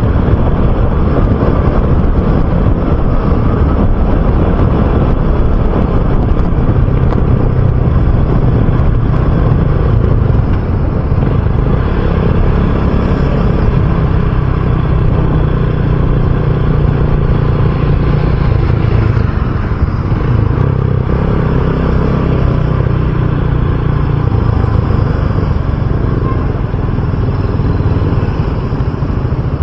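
RUSI Classic 250 motorcycle engine running steadily while riding at cruising speed, heard from the rider's camera.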